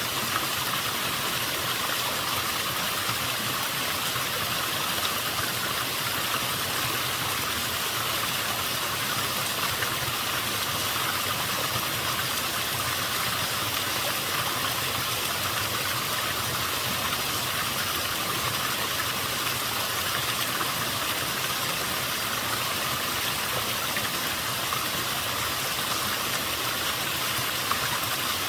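Waterfall with a somewhat low flow of water: a gentle, steady rush of falling water, mostly hiss, with no change through the stretch.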